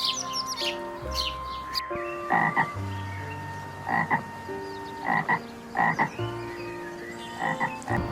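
A frog croaking: short croaks every second or two, after a few high bird chirps at the start.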